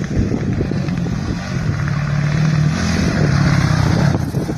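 Rally-raid enduro motorcycle engine running under throttle, growing louder over the first few seconds, then dropping away just before the end.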